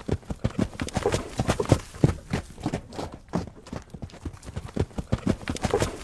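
Horse hoofbeats: a quick, irregular run of sharp hoof strikes, several a second.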